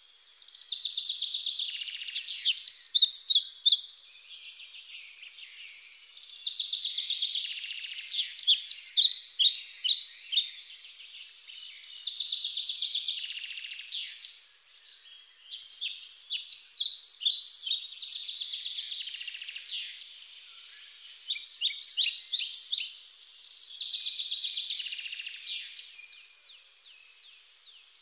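High-pitched animal calls repeating in phrases every five or six seconds. Each phrase is a fast buzzing trill that ends in a run of quick, sharp chirps, and the chirps are the loudest part.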